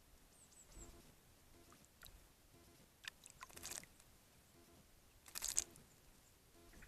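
Small songbirds bathing in a bird bath: two brief bursts of splashing and wing-fluttering, with a few faint thin chirps near the start.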